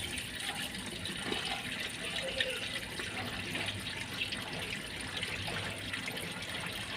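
Water draining out of a washing machine's blocked drain, trickling and splashing steadily as the clog is cleared.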